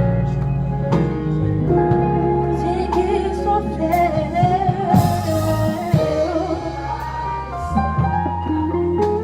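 Gospel worship song: a voice sings a wavering melody over sustained chords and a bass line, with a few drum hits.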